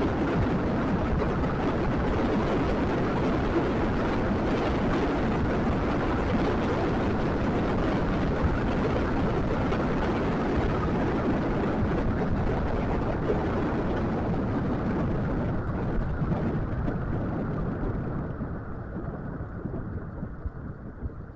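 Steady rumble and rattle of a scooter rolling along the road, with wind on the microphone. It grows quieter and duller near the end as the surface turns smoother.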